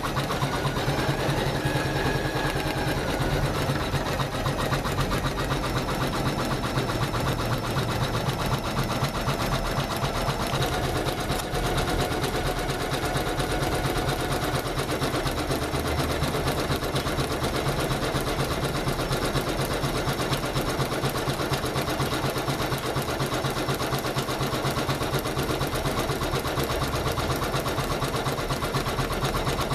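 Janome MC500E computerized embroidery machine stitching, its needle running at a fast, steady, even rate without pause.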